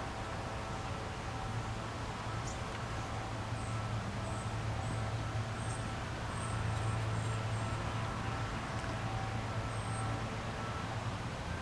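Outdoor backyard ambience: a steady low mechanical hum, with short high-pitched chirps scattered through it.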